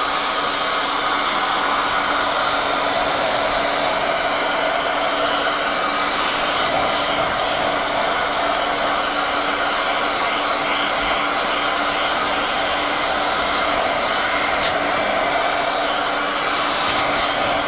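Handheld hair dryer running steadily, a loud even rush of air with a constant motor hum, drying wet watercolour paint on a paper page.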